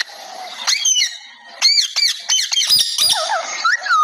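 Green parrot squawking and chattering: a quick run of short, shrill calls that bend up and down in pitch, coming thick and fast from about a second and a half in.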